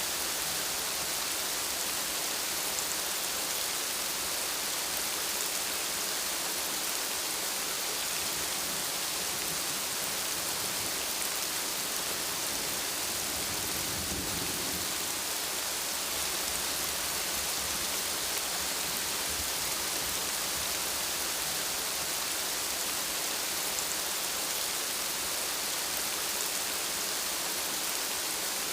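Steady, dense rainfall hissing on surfaces, with a faint low rumble of distant thunder about halfway through.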